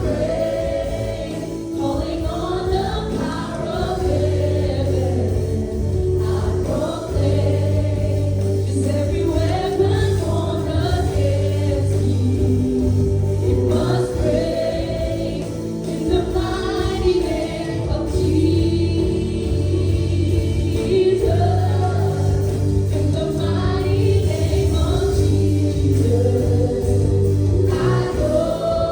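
Live church worship music: a group of voices singing a slow praise song together over held keyboard chords and a steady bass line.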